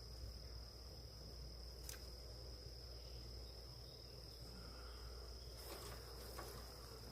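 Honeybees buzzing around an open hive, with a steady high-pitched insect whine running underneath. A few faint clicks sound about 2 s in and again near the end.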